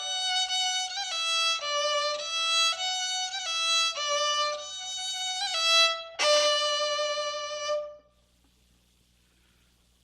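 Solo instrumental introduction to a hymn: a single melody line of sustained, evenly paced notes. It stops about eight seconds in, leaving near silence.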